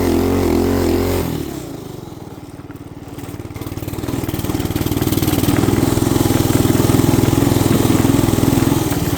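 Small single-cylinder 212 cc motorbike engine running. It drops off about a second in, then picks back up and runs hard at higher revs from about four seconds on.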